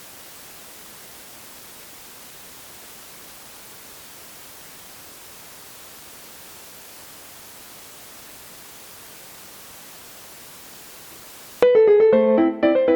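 Steady hiss of line noise from a digital keyboard's output wired straight into a camera, heard plainly while no notes sound. Near the end the keyboard's automatic piano playback starts suddenly with a run of notes.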